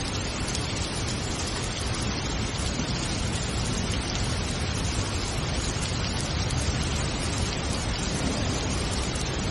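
Steady rain: an even hiss full of small drop ticks.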